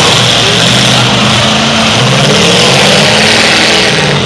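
Demolition derby cars' engines running and revving at full tilt, pitch rising and falling, under a dense steady wash of noise.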